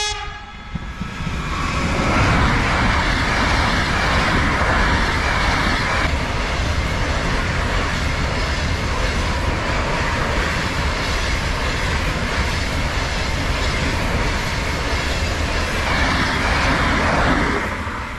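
Steady road and wind rush of a car driving at speed, heard from inside, with a low rumble beneath; it swells about a second and a half in and eases near the end. A brief chime-like tone sounds right at the start.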